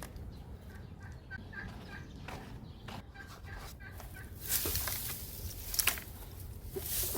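Chickens clucking in a string of short, repeated notes, then a few louder rustles and knocks from about four and a half seconds in.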